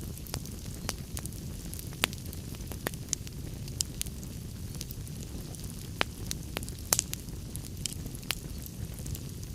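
Wood log fire in a fireplace crackling: irregular sharp pops and snaps over the steady low rumble of the flames, with a few louder pops about 2, 6 and 7 seconds in.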